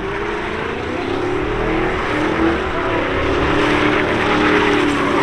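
A car engine held at high revs, its pitch wavering up and down, over a loud steady hiss; it grows louder toward the end.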